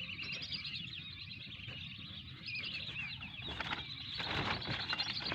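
Whistling ducks (belibis kembang) calling: a dense chorus of many short, overlapping high whistling chirps, from a lure recording and a responding flock.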